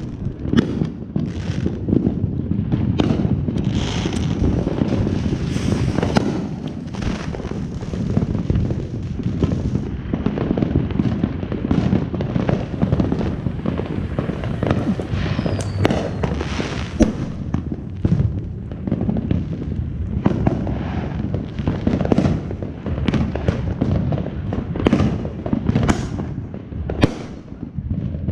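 Fireworks going off: a continuous, irregular run of bangs and crackling pops over a dense low rumble.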